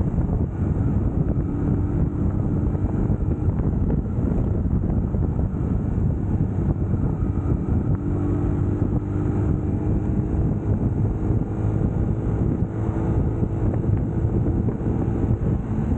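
UM Scrambler X motorcycle engine running steadily while riding at speed, with heavy wind rushing over the camera microphone.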